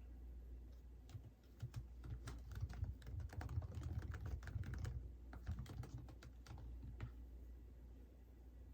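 Typing on a computer keyboard: a run of quick, irregular keystrokes starting about a second in, thickest in the middle and stopping about seven seconds in.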